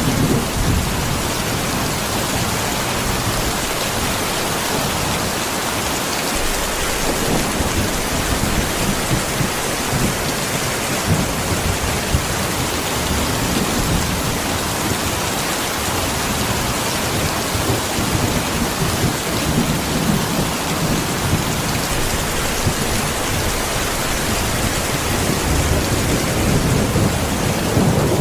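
Heavy rain pouring steadily, with low rumbling swells rising and falling every few seconds.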